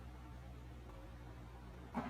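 A faint, steady low hum, with a short knock right at the end.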